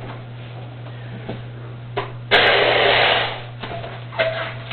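Air rushing into a 350 twisting balloon as it is inflated: a click, then a burst of steady rushing air lasting just over a second, beginning about two seconds in.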